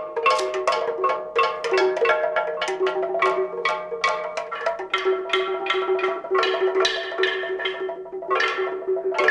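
Music played on reconstructed prehistoric instruments: tuned struck percussion in an even run of ringing strokes, about three a second, on a few repeating pitches.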